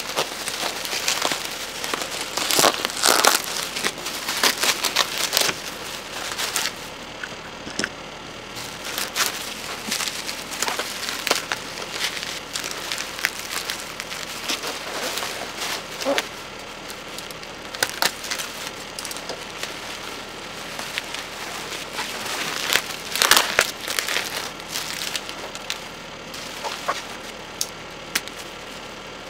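Packaging being handled: crinkling and rustling with irregular crackles. It gets busier and louder a few seconds in and again about twenty-three seconds in.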